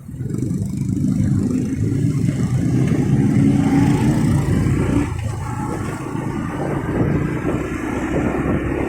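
Motorcycle engine running under way in road traffic, starting up loud all at once and dipping briefly about five seconds in.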